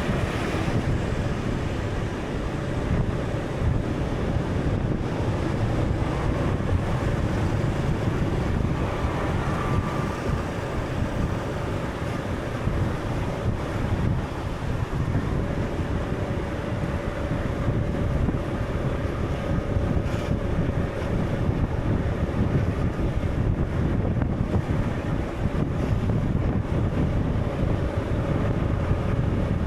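Steady wind and sea: a stormy ocean ambience, heaviest in the low rumble, with a faint held tone or two over it.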